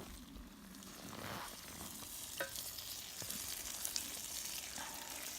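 Eggplant and tomatoes sizzling as they fry in a pan over a campfire, with a utensil clicking against the pan as they are stirred together. The sizzle grows louder about two seconds in.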